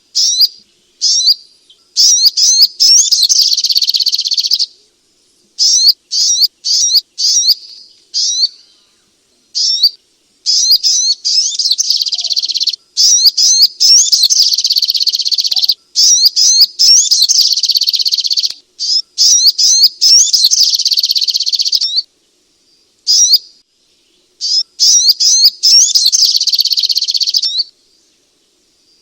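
Little spiderhunter (sogok ontong) singing: long runs of rapid, high-pitched chirping lasting one to several seconds each, broken by short pauses.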